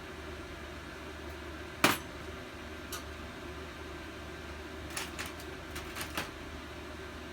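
Metal hand tools and small engine parts clinking during an engine teardown: one sharp clink about two seconds in, then a run of lighter clicks near the end, over a steady low hum.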